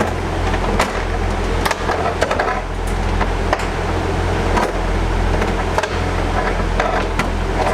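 Steady low hum of a train idling at the platform, with irregular knocks and clanks as a portable metal boarding ramp is handled and fitted to the train door.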